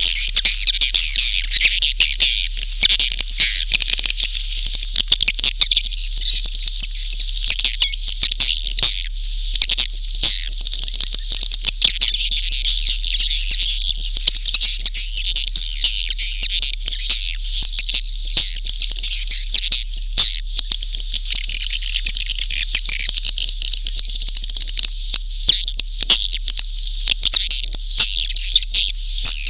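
A dense chorus of swiftlets twittering and chirping, with many sharp clicks scattered through it, in a swiftlet-house lure call recording.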